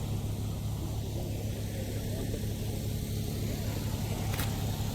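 An engine running at a steady idle, a low even hum, with one sharp click near the end.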